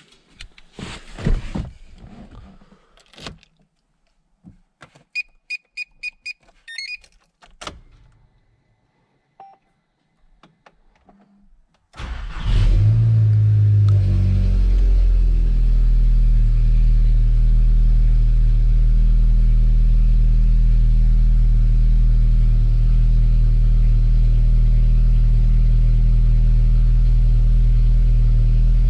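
Volkswagen Scirocco R's turbocharged 2.0-litre four-cylinder cold start. First come clunks, clicks and a short run of about six quick electronic beeps. About twelve seconds in the engine catches, flares up briefly and settles into a steady, elevated cold idle.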